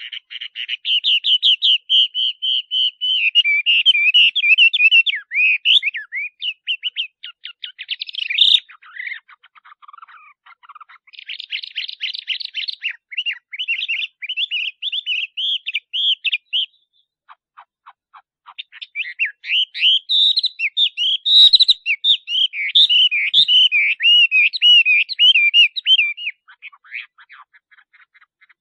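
Male Chinese hwamei singing: long runs of rapid, varied notes, broken by a spell of quieter, lower notes about ten seconds in and a short pause about seventeen seconds in.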